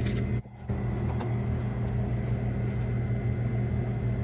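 Steady low hum with a few fixed pitches and a light background hiss, cutting out briefly about half a second in.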